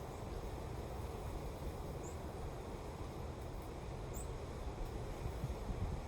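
Steady wind blowing, with a low rumble of wind on the microphone. Two faint, short, high bird chirps come about two and four seconds in.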